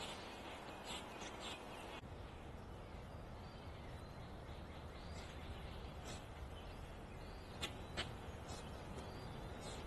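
Backyard birds giving short, high chirps scattered over steady low background noise, with two sharper, louder chirps close together about three-quarters of the way through.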